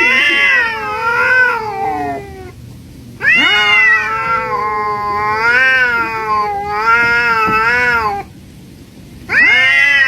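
Cat meowing in long, drawn-out calls with a wavering pitch. One call ends about two and a half seconds in, a longer one runs from about three to eight seconds, and a third starts near the end.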